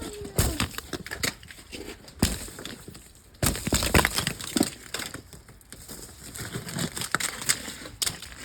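Irregular crunching and crackling of something brittle being crushed, many sharp cracks in quick uneven succession.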